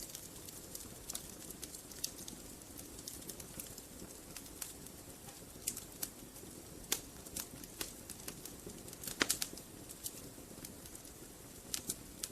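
Wood fire burning in a fireplace: a steady low hiss with irregular crackles and sharp pops from the logs, the loudest cluster a little past nine seconds in and two more pops near the end.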